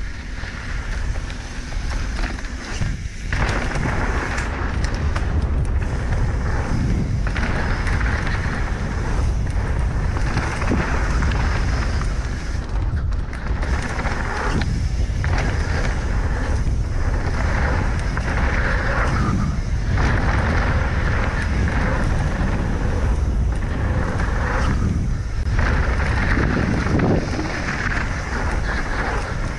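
Mountain bike riding down a dirt trail at speed: wind buffeting the microphone over the rolling and rattle of the tyres and bike, surging and easing with the terrain.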